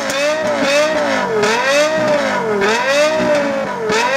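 Lexus LFA's V10 engine revved while stationary: the engine note repeatedly rises and dips as the throttle is blipped, several swings of pitch in a row.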